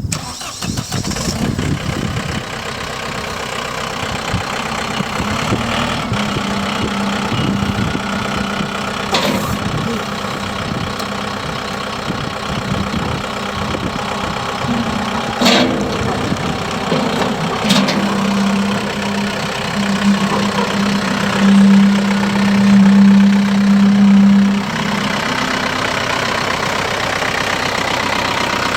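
John Deere 4720 compact tractor's diesel engine running at idle, steady throughout. Past the middle a steady hum grows louder for a few seconds, and a few sharp clicks are heard.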